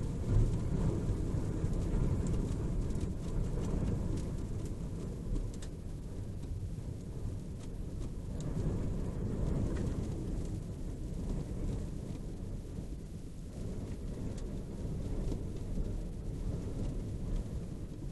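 Thunder from a storm cloud rumbling low and long, swelling and fading over several seconds, loudest just after the start.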